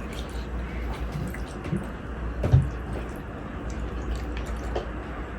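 Wet eating sounds: small moist clicks of chewing and a soft knock about two and a half seconds in, over a steady low hum.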